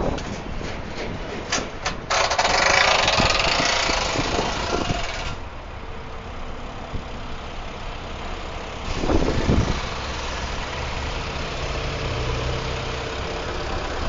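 Vehicle engine idling. About two seconds in, a loud hiss lasts some three seconds, and there is a single knock near the middle.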